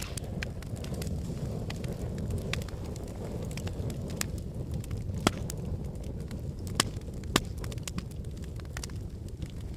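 Logs burning in a fireplace: a steady low rush of flame with scattered sharp crackles and pops. The loudest pop comes about five seconds in, and two more follow about two seconds later.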